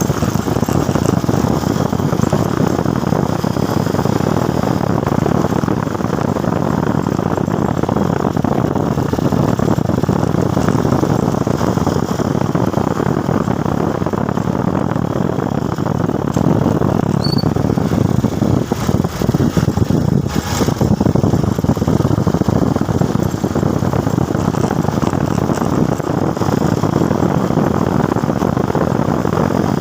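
Motorcycle on the move: a steady loud rush of engine, road and wind noise, with a brief knock about twenty seconds in.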